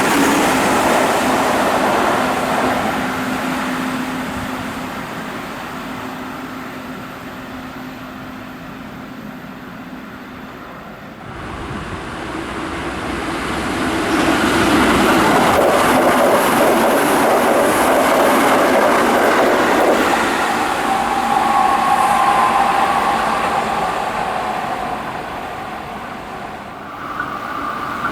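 Keihan Main Line electric trains passing at speed: one dies away over the first ten seconds. After an abrupt change about eleven seconds in, another builds to a loud pass with a couple of steady tones, then fades near the end.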